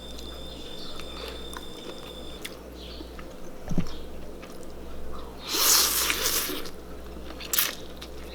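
People eating noodles close to the microphone: scattered chewing and biting clicks, with a longer hissing sound about five and a half seconds in and a sharp click near the end. A steady low hum sits underneath.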